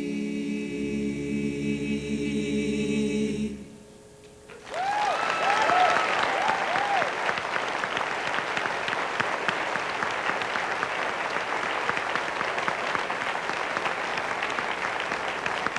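A cappella vocal group holding the final chord of a song, with a low bass note joining underneath; the chord cuts off about four seconds in. After a brief pause an audience breaks into steady applause, with a few whoops at its start.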